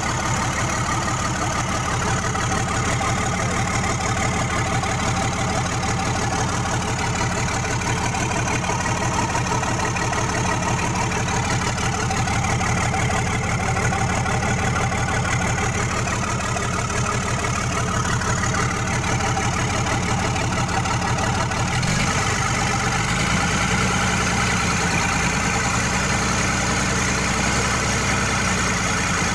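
Isuzu 6BG1 six-cylinder diesel engine idling steadily with a fast, even low pulse. About two-thirds of the way through, its low running note shifts abruptly and then settles again.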